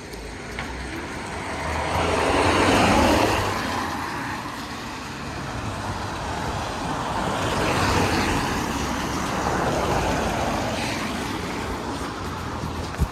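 Road traffic on a wet street: vehicles pass one after another, the noise swelling to its loudest about three seconds in and again around eight seconds in.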